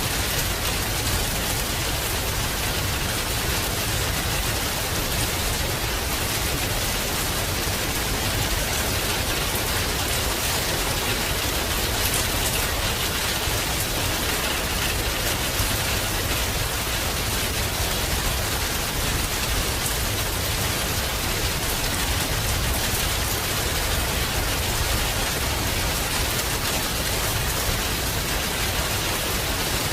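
Steady heavy rain falling, an even hiss of rain on surfaces with no break.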